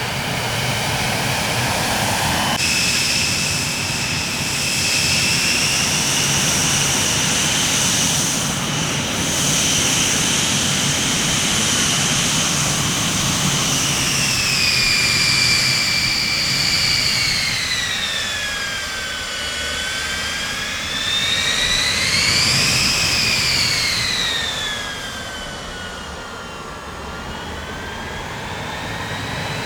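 Jet aircraft engines with a loud, steady rush and a high turbine whine. The whine holds, drops in pitch, swoops up once more about three-quarters of the way through, then falls away.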